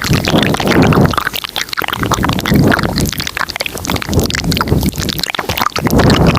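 Layered close-microphone ASMR mouth sounds: dense wet mouth clicks and smacks over low, muffled swells that rise and fall about once a second.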